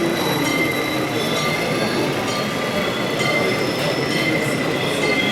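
Miniature electric model trains running on an exhibition layout, a thin high whine coming and going over a steady background din.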